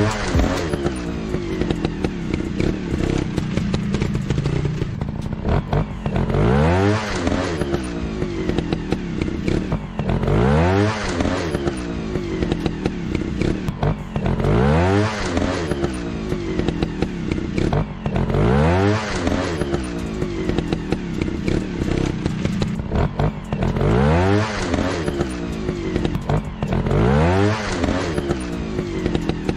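Motorcycle engine running, revved up again and again in rising sweeps about every four seconds over a steady drone.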